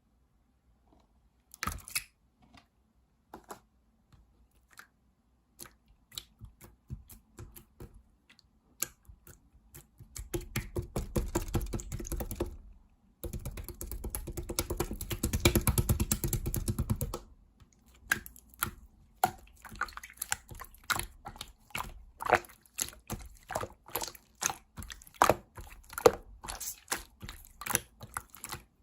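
Typing on a computer keyboard: scattered keystrokes, then two dense runs of rapid clicks lasting a few seconds each near the middle, then quick irregular typing.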